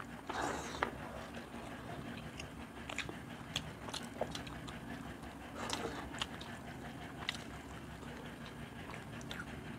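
Eating sounds of two people eating fish curry and rice with their hands: chewing and lip smacks with scattered short clicks.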